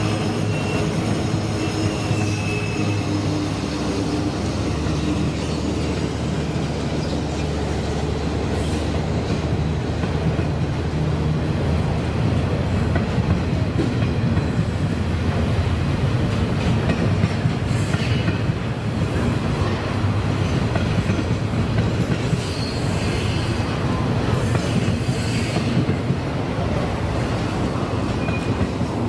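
Container wagons of a long freight train rolling past: a steady rumble of steel wheels on the rails, with a few knocks and brief high wheel squeals.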